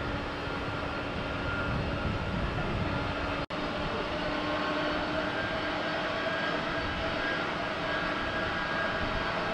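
Jet airliner engines running steadily: a broad rush with several held whining tones. The sound cuts out for an instant about three and a half seconds in.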